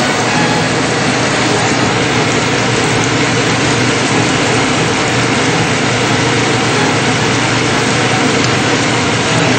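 Morel mushrooms frying in a skillet of bubbling hot oil, a steady, dense sizzle.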